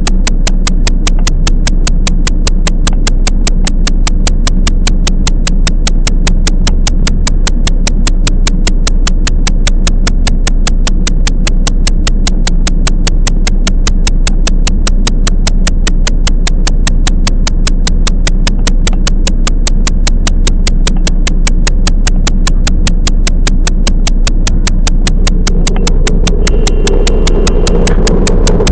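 Sound inside a moving electric train's cabin: an even, rapid clicking, about four clicks a second, over a steady low electrical hum. Near the end a louder rushing noise swells in.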